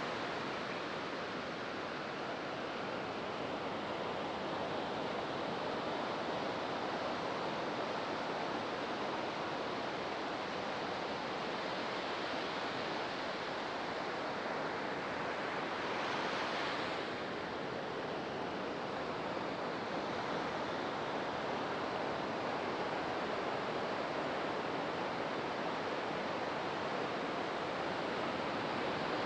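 Ocean surf breaking and washing up a sandy beach: a steady rush of white water, with one wave crashing a little louder about halfway through.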